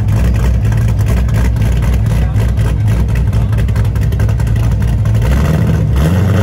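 Loud car exhaust rumbling at a choppy, uneven idle, with a couple of quick blips of the throttle near the end that raise the pitch briefly.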